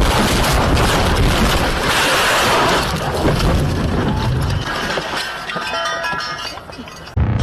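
Vehicle collision picked up by a dashcam microphone: loud, noisy crashing with rumble and breaking, fading away over the last few seconds, then a short burst before the sound cuts off.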